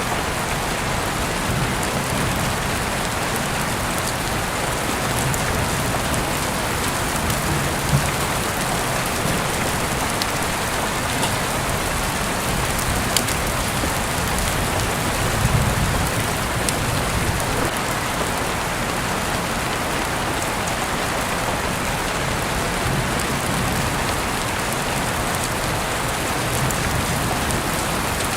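Heavy rain falling steadily, a dense even hiss with a few louder single drop ticks here and there.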